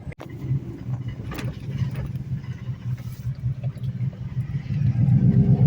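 Pickup truck's engine and road noise while driving, a steady low rumble that swells louder about five seconds in.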